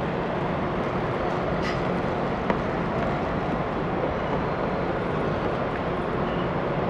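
Steady machinery rumble with a faint constant hum, with one short sharp click about two and a half seconds in.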